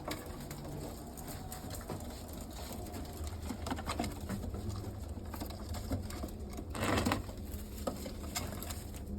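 Domestic pigeons cooing, with small clicks and scratches throughout and a brief louder scuffle about seven seconds in.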